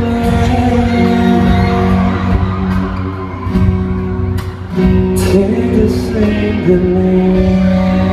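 Live pop-rock band music: guitar and bass playing long held chords in the closing bars of the song.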